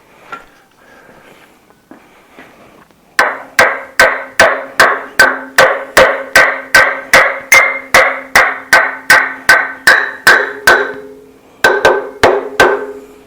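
Hammer striking a metal part in a steady run of about three blows a second, each blow ringing. After a short pause, four more blows follow near the end.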